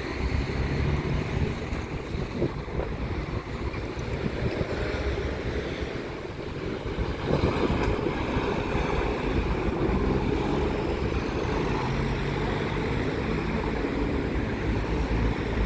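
Wind rumbling on the microphone over harbour water, with a low engine drone coming in about halfway through and growing louder near the end.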